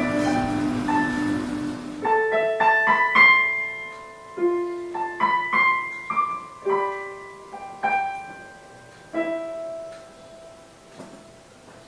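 Closing bars of a slow, sad instrumental melody. A held low accompaniment stops about two seconds in, then a slow line of single plucked or struck string notes, each ringing on, slowing and fading out.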